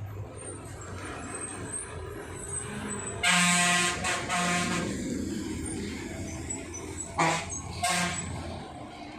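Truck horn honking: two blasts about three seconds in, then two short toots near the end, over the low steady running of truck engines.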